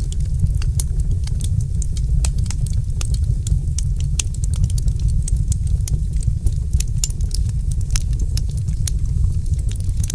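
Wood fire in a fireplace crackling: many sharp pops and snaps, several a second, over a steady low rumble.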